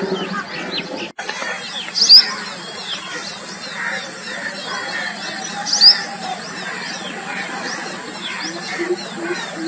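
Chorus of several forest bird species calling and chirping, many short quick sweeping notes overlapping, with two louder calls about two and six seconds in.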